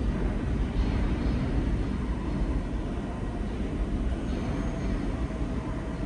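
Steady low rumble of a New York City subway train running in the tunnel, with a faint brief high squeal about four seconds in.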